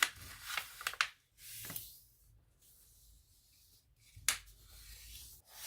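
A square of origami paper being handled and folded corner to corner, rustling and crinkling in a few short bursts, with some sharp crackles in the first second.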